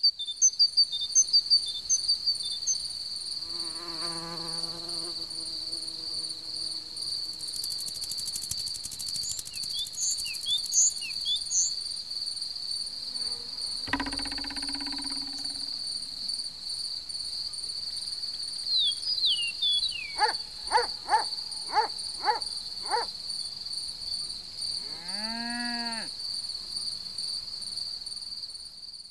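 Meadow insect ambience of the kind used in cartoon sound design: steady, high-pitched cricket chirring, with a fly buzzing past about four seconds in. Short bird-like chirps come early and again near the middle, and a quick run of five short calls follows later.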